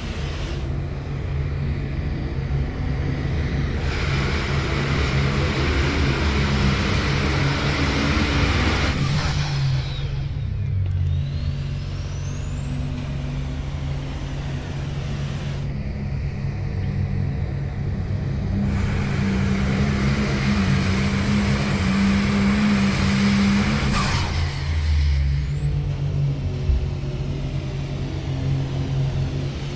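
Super stock diesel pulling tractors running at full power, with the high whine of their turbochargers. The whine rises and holds, cuts off sharply about two-thirds of the way through, then climbs again.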